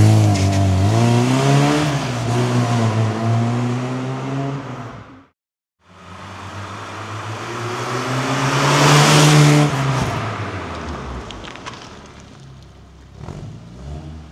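A 1983 Pininfarina 124 DS Spider's fuel-injected twin-cam four-cylinder engine pulling away, its revs rising and falling through the gears as it fades off. After a short break the car drives past, swelling to its loudest about nine seconds in with tyre and wind noise, then dropping in pitch and fading.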